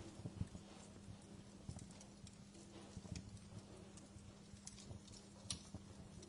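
Wood fire in a fireplace crackling quietly, with irregular sharp pops and soft low knocks; the loudest pop comes about five and a half seconds in. A faint steady hum lies underneath.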